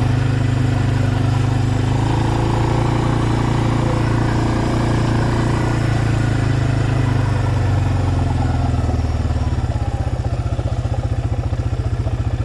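A vehicle engine running steadily with a low hum and a couple of small pitch changes, then settling into slower, even firing pulses near the end as it drops toward idle.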